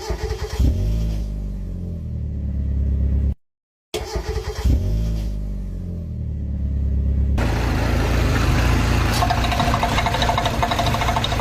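A car engine cranks, catches and settles toward idle, heard twice with a short silent cut between. About seven seconds in it gives way to a louder, noisier engine running steadily.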